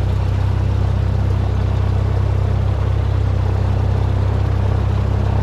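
Cessna 172's piston engine and propeller running steadily at low power, a constant low drone with a fast even pulse.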